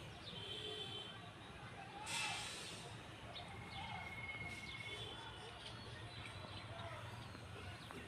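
Outdoor rural ambience: small birds give high, even trills a few times over a low steady hum, with a brief rushing noise about two seconds in.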